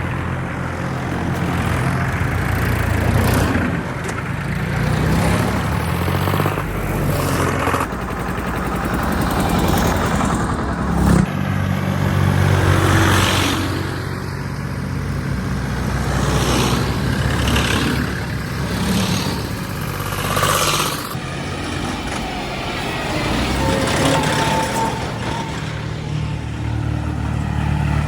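Diesel tractor engine running under load, its speed rising and falling through the stretch. There is a short loud knock about eleven seconds in.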